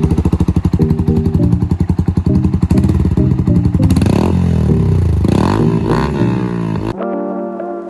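Yamaha R15M's single-cylinder engine through an aftermarket full-system exhaust, loud and running with a choppy, pulsing beat, then revved up and down a few times. It cuts off suddenly about seven seconds in, and music follows.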